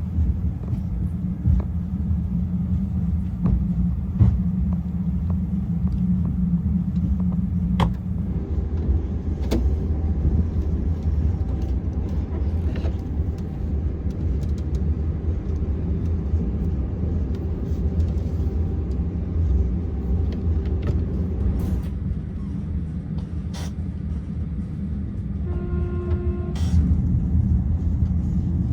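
Train running along the line: a steady low rumble of wheels and running gear, with scattered sharp clicks and knocks. A short pitched tone sounds near the end.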